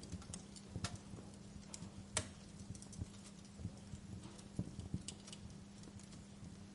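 Wood fire crackling in a fireplace: irregular sharp pops and snaps, one louder pop about two seconds in, over a low steady hum.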